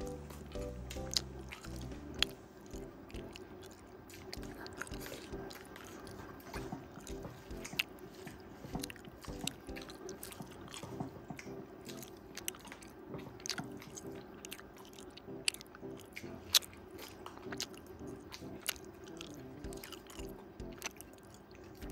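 Close-miked chewing and biting of rice and pork curry, with many small irregular wet mouth clicks and crunches. Soft background music plays underneath.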